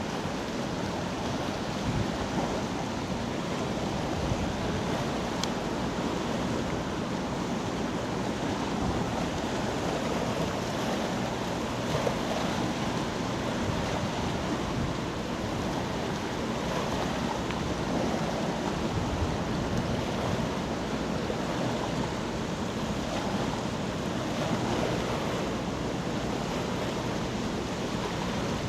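Steady rush of wind and water, with wind buffeting the microphone in uneven low gusts.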